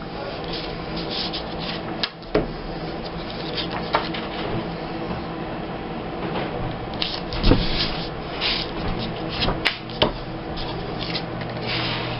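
Paper being handled and trimmed on a tabletop: continuous rustling and rubbing with scattered light clicks and taps, and one duller knock partway through.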